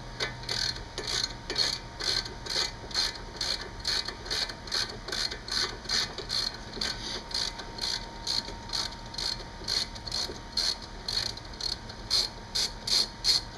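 Ratchet wrench clicking steadily, about three clicks a second, as a 13 mm bolt is turned out.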